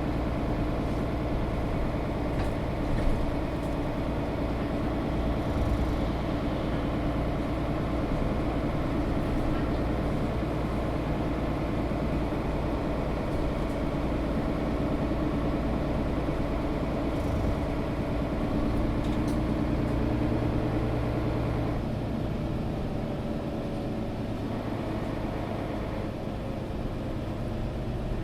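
Mercedes-Benz O530 Citaro G articulated bus heard from inside: steady diesel engine drone and road rumble, with a sharp knock about three seconds in and the sound easing slightly over the last few seconds.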